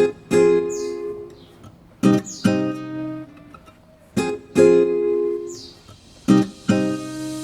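Background music: an acoustic guitar playing plucked chords in short phrases, a new phrase starting about every two seconds.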